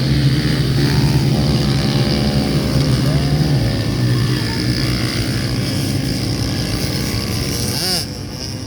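Several small pit bike engines revving, their pitch rising and falling as the bikes accelerate and back off. The sound is loudest in the first few seconds and drops off near the end.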